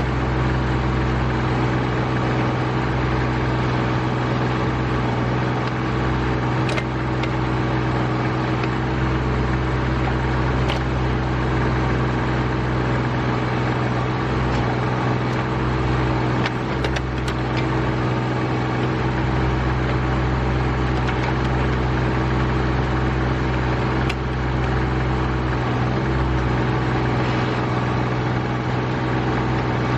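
RK25 subcompact tractor's diesel engine running steadily while the backhoe digs, with a few faint clicks here and there.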